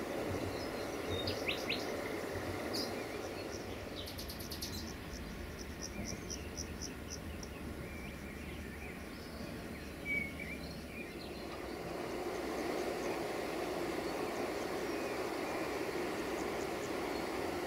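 Birds chirping and calling, with a quick run of evenly repeated high notes about five seconds in, over a low steady hum that grows louder after about twelve seconds.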